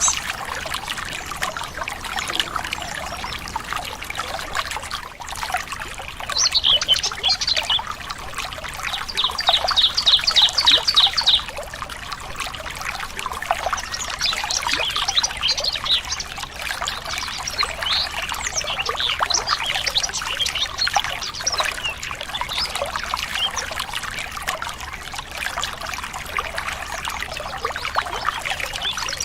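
A small stream running steadily, with birds chirping over it; one bird gives a fast run of repeated notes about nine seconds in.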